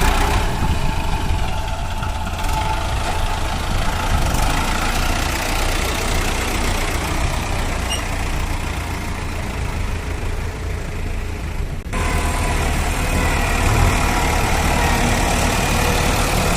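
Heavy diesel engine running steadily at low speed, with an abrupt change in the sound about twelve seconds in.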